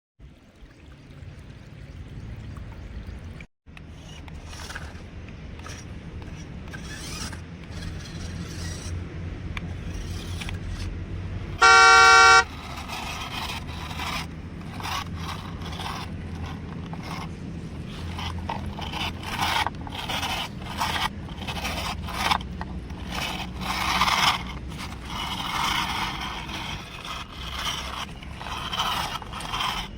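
Toy vehicles being handled and pushed about: plastic scraping and clattering over a steady low rumble, growing busier in the second half. About twelve seconds in comes one short, loud, steady horn honk.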